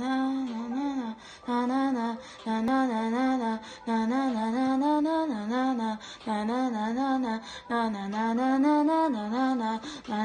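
A woman humming a wordless melody in short repeated phrases of about a second each, the pitch wavering up and down, with brief pauses between them.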